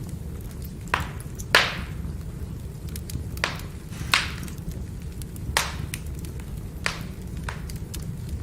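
Firewood burning with a steady low rumble and crackling, broken by about seven sharp pops; the loudest comes about a second and a half in.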